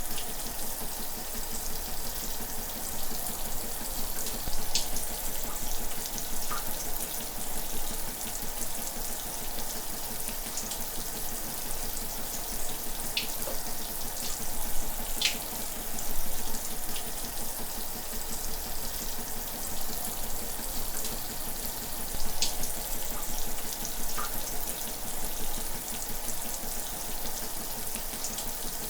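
Shower running steadily: a continuous hiss of spraying water, with a few brief sharper splashes scattered through it.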